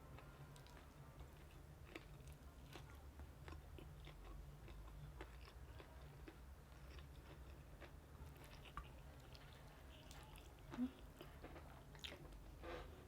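Faint chewing and biting of crunchy fried chicken: scattered small crunches and mouth clicks, with a couple of louder bites near the end.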